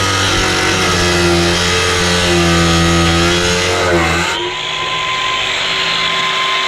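Angle grinder motor running, at a lower, wavering pitch at first; about four seconds in its pitch rises quickly and settles into a steady high whine.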